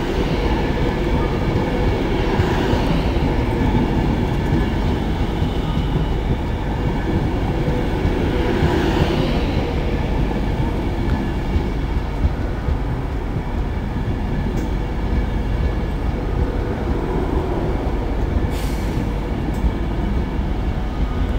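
Virgin Trains Class 390 Pendolino electric train running past close by along the platform: a steady rumble of wheels on rail and running gear. Brief swells of higher hiss come about two and nine seconds in.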